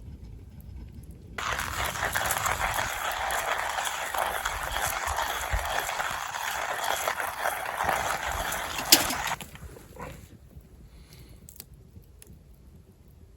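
Hand coffee grinder being cranked, beans crunching, as a dense gritty grinding noise that starts about a second and a half in and lasts about eight seconds, ending just after a sharp click.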